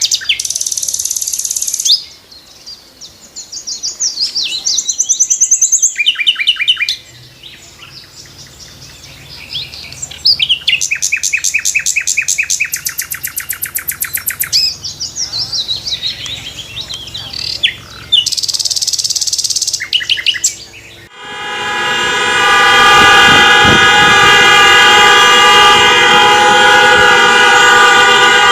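Birdsong: high chirps, rapid trills and gliding whistled phrases, coming and going in short bursts. About 21 seconds in, a loud horn starts with a steady, many-toned blare and holds on, much louder than the birds.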